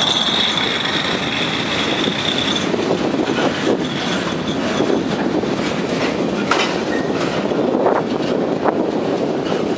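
Freight cars rolling past close by on steel wheels: a steady high-pitched wheel squeal for the first two and a half seconds, then the rumble of the wheels on the rail with scattered clacks and knocks.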